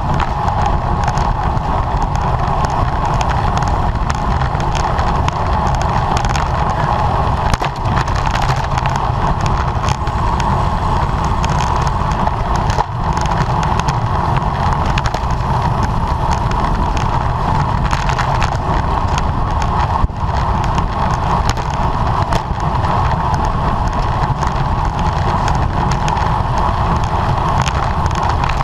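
Steady wind rush on the microphone with tyre and road noise from a bicycle riding at race speed in a criterium, and a few brief knocks.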